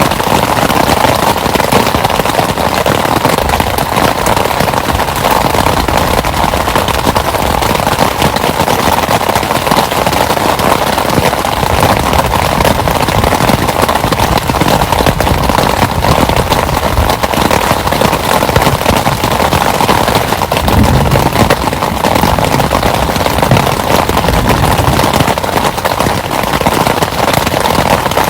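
Heavy rain falling steadily, a dense patter of countless drops, with a brief low rumble about two-thirds of the way through.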